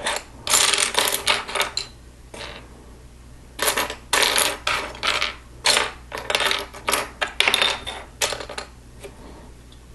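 Loose Lego plastic pieces clattering and rattling as hands sift through them. The rattling comes in two spells, from about half a second to two seconds in and from about three and a half to eight and a half seconds in.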